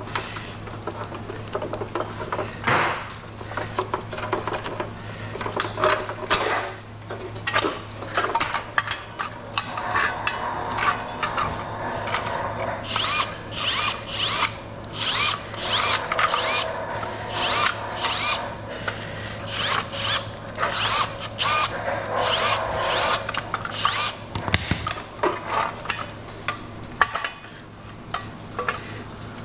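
Tool work on scrap metal and wire: repeated sharp clicks, snips and clatter, with a power tool whirring at times in the middle stretch, over a steady low hum.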